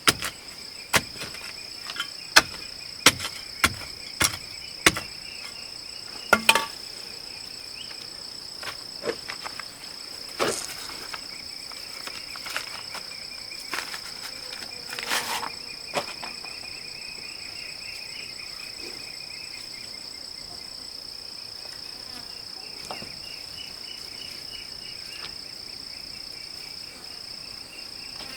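Steady insect chorus of crickets: a continuous high buzz with a pulsing chirp beneath it. Over the first seven seconds a run of sharp knocks comes a little under two a second, the loudest sounds here, then a few scattered knocks.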